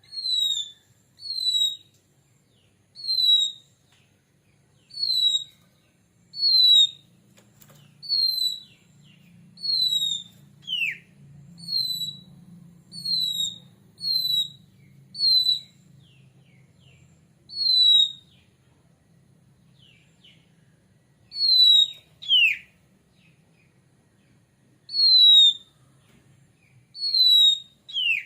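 Oriental magpie-robin (kacer) giving a series of loud, short, down-slurred whistles, roughly one every one to two seconds. A few drop lower into a longer falling sweep. This is the repeated 'ngeplong' whistling used as a lure to set other kacer singing.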